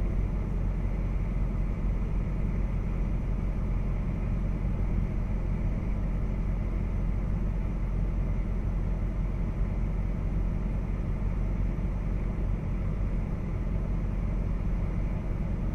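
Steady low rumble of a vehicle driving: engine and road noise, even throughout with no sudden events.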